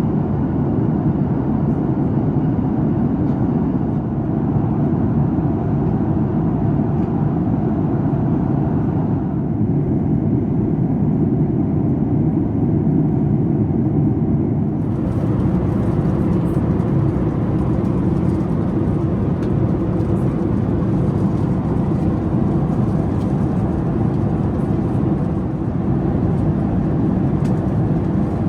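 Steady cabin noise of a Boeing 737 MAX 8 in flight: an even, low rush of airflow and engine noise. Its upper hiss changes abruptly about nine and fifteen seconds in.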